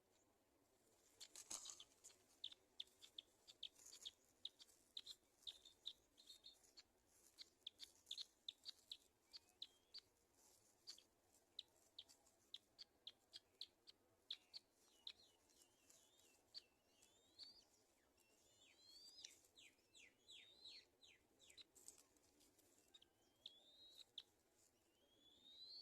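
Faint, high-pitched bird calls: a long run of short chirps, two or three a second, then rising, sliding calls in the later part.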